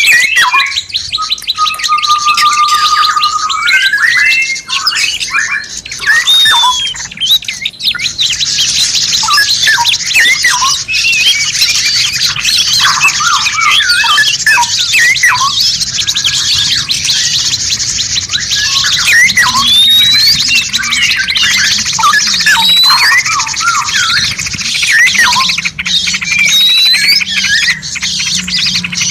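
Several songbirds singing at once in a dense mix of chirps, rising whistles and fast trills. A long rising whistle stands out in the first few seconds, and from about eight seconds in a continuous high, fast trill runs under the other calls.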